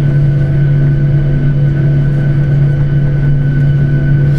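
Airliner's jet engines heard inside the passenger cabin: a steady low hum with several constant tones over it, unchanging throughout.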